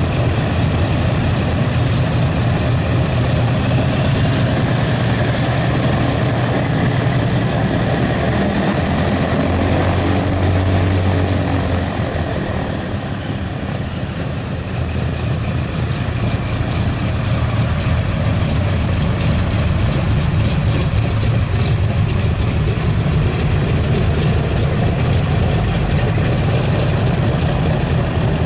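Republic P-47D Thunderbolt's Pratt & Whitney R-2800 eighteen-cylinder radial engine running steadily with its propeller turning, its loudness dipping briefly about halfway through.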